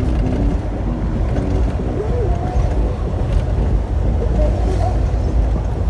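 Steady low rumble of a Volvo semi-truck on the road, heard from inside the cab: engine and road noise.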